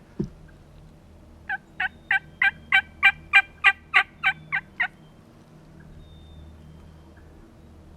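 A run of about twelve turkey yelps, evenly spaced at three to four a second, swelling louder toward the middle and tailing off. A single short thump comes just before them.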